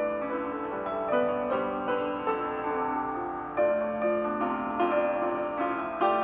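Piano music: a melody of notes struck one after another, each ringing out and fading.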